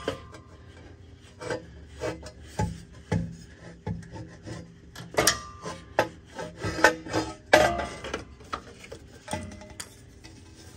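Irregular metallic clinks, knocks and scraping as exhaust parts, gaskets and tools are handled and fitted, some clinks ringing briefly.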